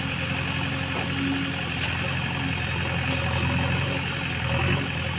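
Diesel engine running steadily at low revs, with a short click about two seconds in.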